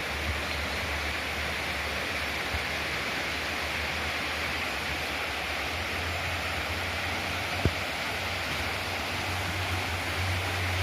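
Steady rushing water of a river or stream, an even hiss with a low rumble underneath, and one short sharp click about three quarters of the way through.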